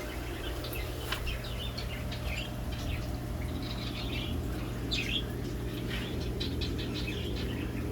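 Small caged birds chirping, many short high calls scattered irregularly, over a steady low hum.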